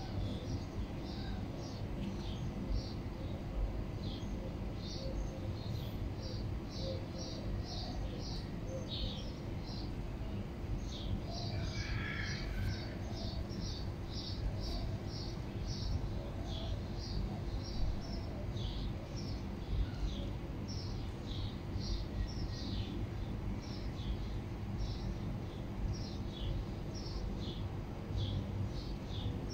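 Small birds chirping in quick, short, high notes again and again, over a steady low background rumble.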